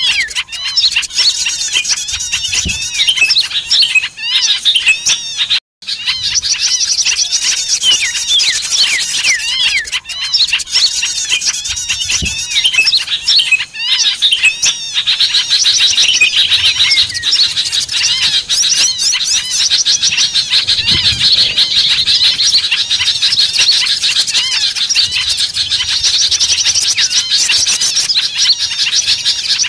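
Many small songbirds chirping and chattering at once in a dense, noisy chorus: a bird-lure recording meant to draw wild small birds in. It breaks off for a moment about six seconds in, then turns into a thicker, more continuous chatter from about halfway.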